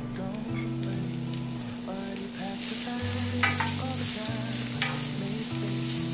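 Food sizzling in a frying pan as it is stirred, the sizzle growing louder about two seconds in, with a few sharp taps of a utensil against the pan. Quiet background music plays underneath.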